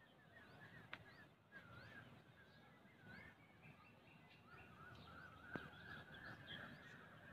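Faint outdoor ambience with distant birds chirping and warbling. Two short clicks come about a second in and again about five and a half seconds in.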